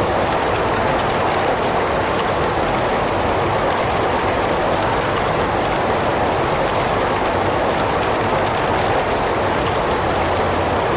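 Heavy rain falling steadily, a continuous even hiss of rain on surfaces.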